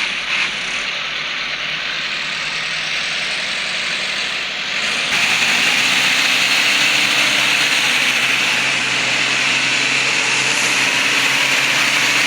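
Tractor diesel engine running steadily, getting louder about five seconds in.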